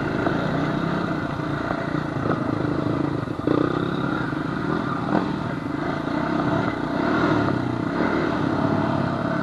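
Honda FourTrax quad's engine running steadily on the trail, with occasional knocks and rattles.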